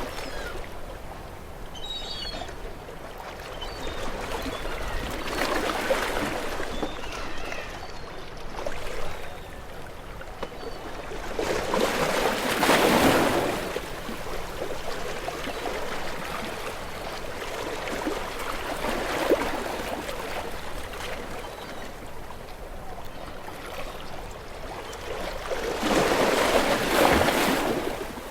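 Small waves washing onto a shore. Each one swells into a rush of hiss and then falls back to a trickling wash. The biggest surges come about halfway through and again near the end.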